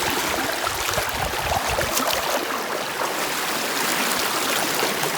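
Shallow stream flowing over rocks, a steady rush of water, with a few low bumps in the first two seconds.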